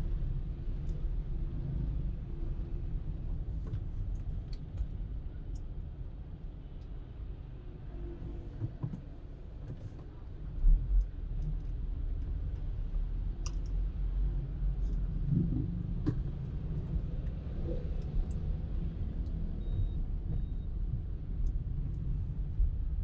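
A car driving, with a steady low rumble of engine and road noise. Scattered faint clicks run through it, and a single louder thump comes about ten and a half seconds in.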